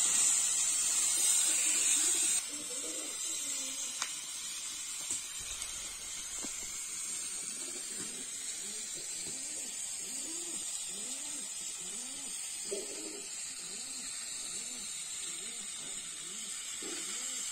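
Food frying in hot oil in a wok over a wood fire, a steady sizzling hiss that is louder for the first two seconds or so and softer after that. From about the middle on, a low cooing repeats over and over, somewhat faster than once a second.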